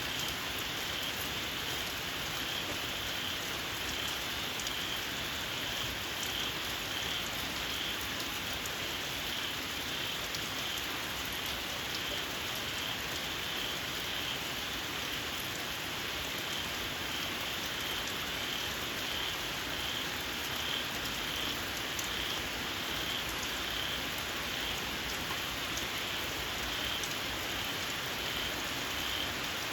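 Steady rain falling, with small frogs repeatedly calling in a high-pitched, pulsing chorus over it.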